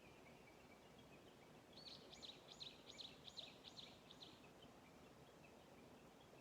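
A small songbird sings one phrase of about seven quick, high repeated notes, roughly three a second. It starts about two seconds in and lasts a little over two seconds, against a quiet outdoor background.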